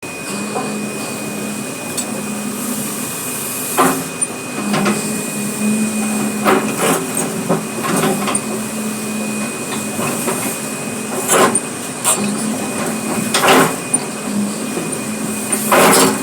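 Excavator working: a steady engine drone under irregular knocks and clanks every second or two.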